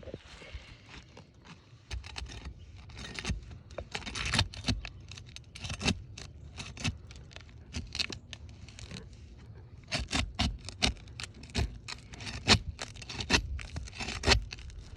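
Scraping and irregular sharp clicks as brittle, wind-damaged asphalt shingles are worked loose from their seal.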